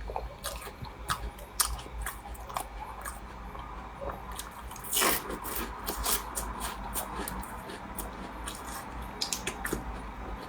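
Close-up eating sounds of a flaky, crumbly pastry with black-sesame filling being bitten and chewed: many small crackles, with a louder crunch about five seconds in.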